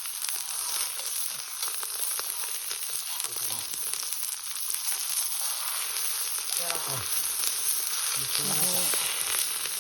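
Steak sizzling in its own beef fat over a wood fire: a steady hiss sprinkled with fine spitting crackles.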